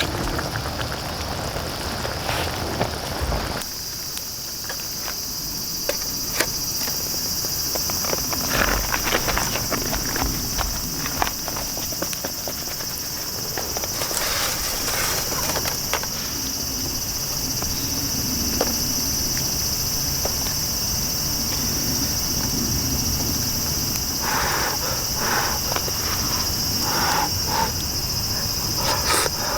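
Steady high-pitched drone of summer insects in woodland, setting in about three and a half seconds in, with scattered light clicks and knocks over it.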